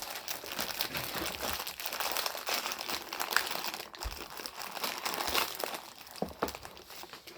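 Crinkly plastic snack wrapper being handled and opened, a continuous crackling rustle.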